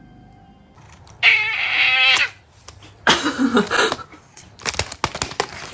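A cat yowling twice: a long wavering call about a second in, then a second call that falls in pitch about three seconds in, followed by a quick run of sharp clicks.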